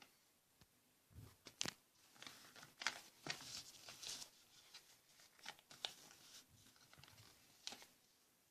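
A sheet of paper being folded and creased by hand: faint, irregular rustling and crinkling with a few sharp crackles, the loudest about one and a half and three seconds in.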